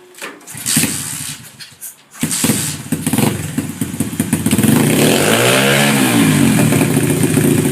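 Pitpro pit bike engine: a short clatter, then the engine runs steadily from about two seconds in, revving up and back down once about halfway through.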